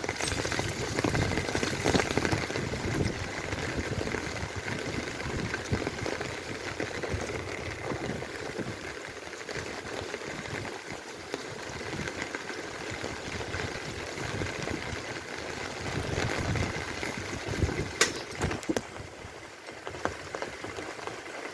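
Rain falling and pattering, a dense steady crackle, with a sharp click about 18 seconds in.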